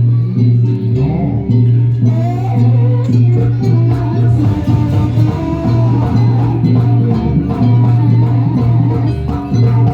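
Loud live jaranan ensemble music, with a wavering melody line over a steady, held low tone.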